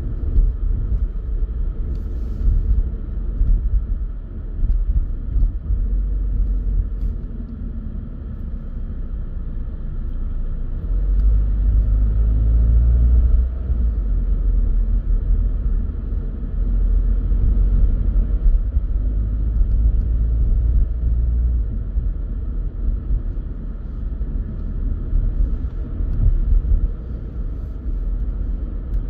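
Car driving on a country road: steady low rumble of tyres and engine, swelling louder twice in the middle.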